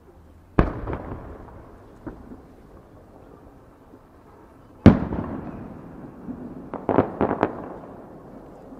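Aerial fireworks shells bursting: a sharp bang about half a second in, the loudest bang near five seconds with a long echoing rumble after it, then a quick string of four or five smaller cracks near seven seconds.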